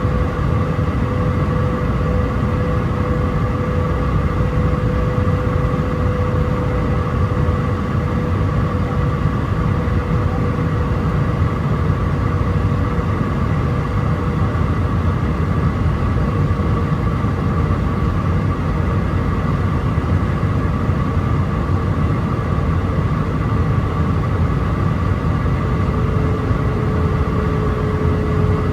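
Cabin noise in an Airbus A319-131 on approach: a steady roar of airflow and the IAE V2500 turbofan engines, with a held whining engine tone that slips slightly lower in pitch near the end as thrust eases.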